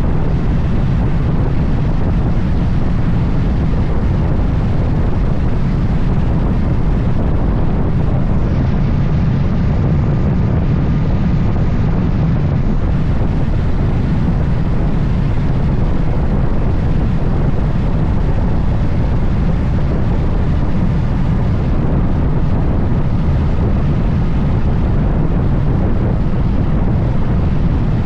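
Steady low wind roar on the microphone of a Moto Guzzi Stelvio motorcycle being ridden at speed, with road and vehicle noise mixed in and no change throughout.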